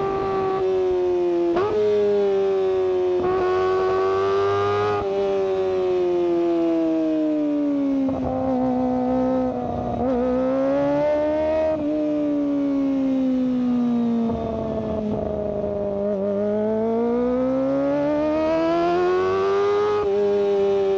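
Kawasaki Ninja ZX-25R's inline-four engine running high in the rev range through its exhaust: a high-pitched wail that slowly sinks and climbs, with several sudden jumps in pitch in the first half and a long dip and rise in the second half.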